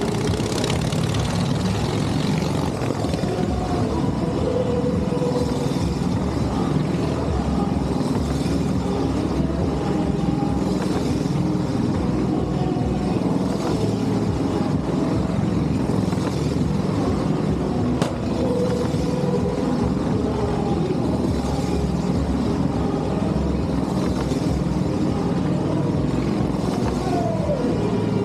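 Motorcycle engine running steadily at speed on the Wall of Death, with one sharp click about eighteen seconds in.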